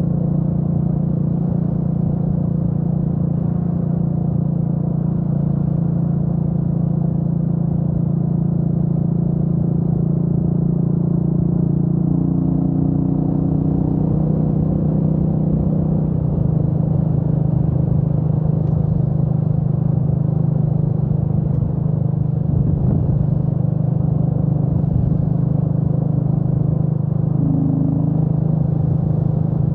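Royal Enfield Meteor 350's single-cylinder engine running steadily at cruising speed, its note dropping slightly about halfway through.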